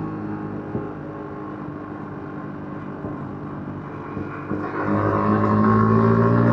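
Yamaha MT-15's 155 cc single-cylinder engine with its stock exhaust, heard from the rider's seat: running on light throttle, then about two-thirds of the way through the throttle opens and it gets louder, its pitch rising a little and holding.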